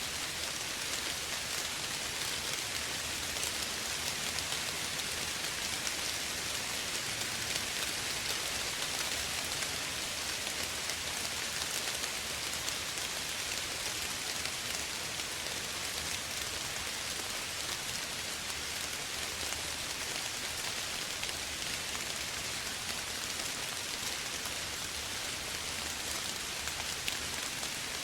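Steady, gentle rain falling, an even patter of many small drops with no thunder.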